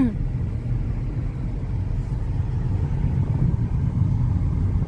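Car driving along the highway, heard from inside the cabin: a steady low rumble of engine and road noise.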